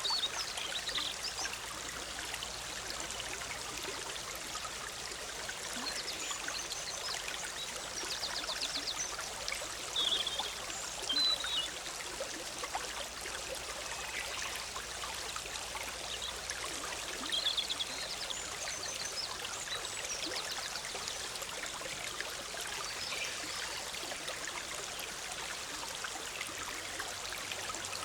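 Forest stream running steadily over rocks, with birds chirping and trilling briefly a few times over it.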